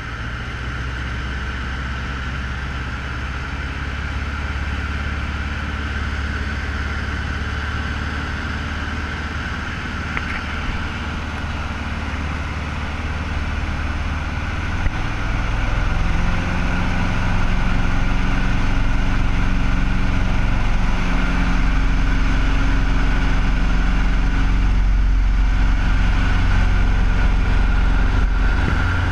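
Cessna 150L's four-cylinder Continental O-200 engine and propeller running steadily. About halfway through the engine note shifts and grows louder, as with a change in power setting.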